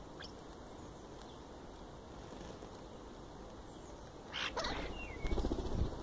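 Birds foraging in grass right beside a ground-level microphone: a loud rustle a little after four seconds in, a short falling chirp, then a run of low bumps and rustling near the end as a bird works close to the mic.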